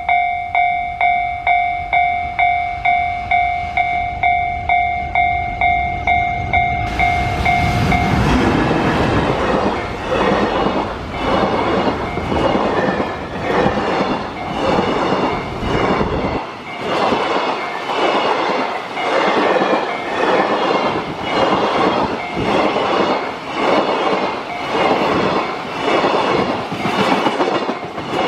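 A railway level-crossing warning bell rings about twice a second. About seven seconds in, a freight train hauled by an EF210 electric locomotive arrives and drowns it out. The freight wagons then roll past with a steady clickety-clack of wheels over rail joints.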